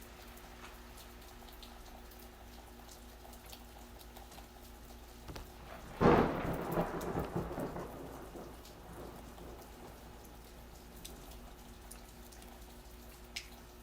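Steady gentle rain falling, with scattered drips. About halfway through a close thunderclap breaks out suddenly, then rumbles and crackles away over a few seconds.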